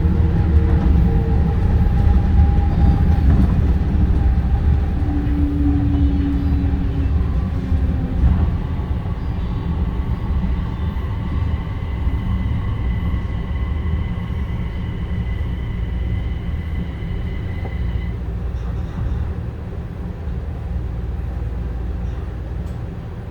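Busan Metro Line 4 rubber-tyred light-metro train running, with a steady low rumble and a steady high whine that cuts off about 18 seconds in, the whole sound slowly getting quieter.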